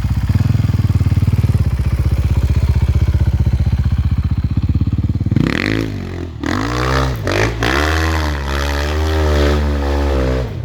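Enduro motorcycle engine running at steady low revs, then revving up and down several times from about halfway through as the bike is ridden hard. The sound cuts off suddenly at the end.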